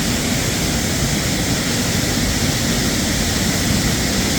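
Steady rush of stream water, the constant noise of water pouring over a small dam.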